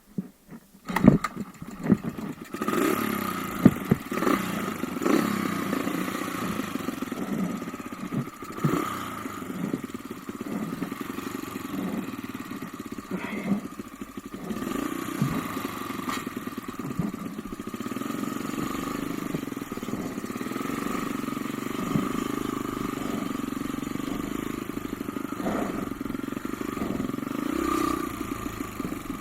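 Off-road motorcycle engine running, its pitch rising and falling with the throttle, after a few sharp knocks in the first four seconds.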